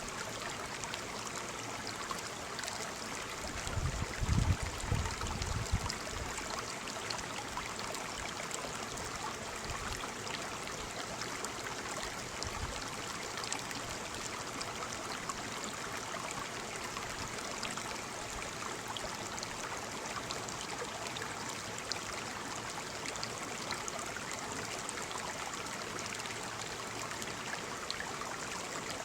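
Waterfall: falling water splashing and running with a steady rushing hiss, with a brief low rumble about four seconds in.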